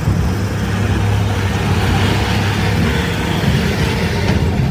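A machine running steadily with a loud low hum over an even hiss.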